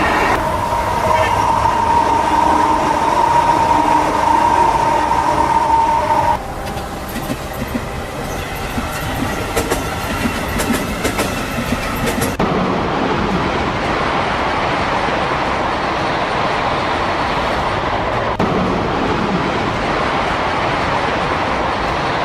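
Train running on the rails, in three clips that change abruptly about six and twelve seconds in. First comes a steady whine over the running noise, then rapid clicking of the wheels over the track, then a steady rushing noise.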